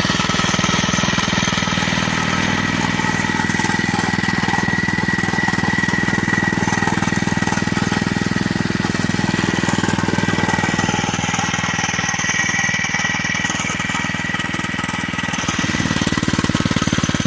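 Small 86cc four-stroke minibike engine running steadily with a rapid, even firing beat, a little softer past the middle and picking up again near the end.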